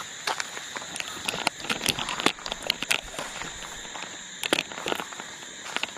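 Footsteps crunching on gravel or debris in irregular clusters of sharp clicks, over crickets chirping in a steady high drone.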